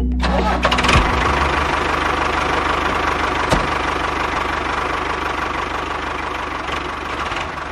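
A small motor running steadily with a fine, even rattle, slowly fading toward the end.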